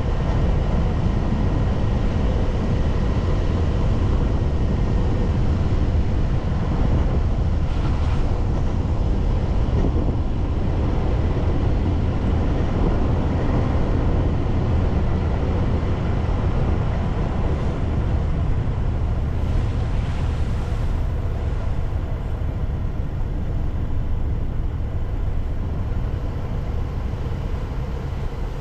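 Steady road noise from a car driving along: a low engine and tyre rumble, with a couple of brief hissing swells.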